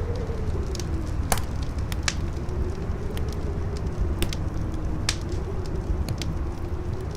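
Campfire crackling with irregular sharp pops and snaps, over strong wind howling with a wavering, slowly falling whistle and a deep steady rumble.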